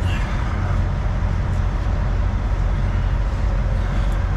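Steady low rumble of an idling heavy diesel truck engine, with a couple of faint clicks.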